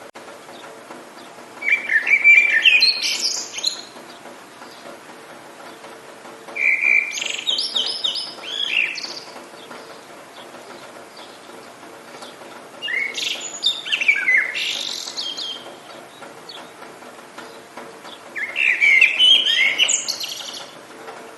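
A songbird singing four short phrases of quick chirps and whistles, one about every five or six seconds, over a faint steady background hiss.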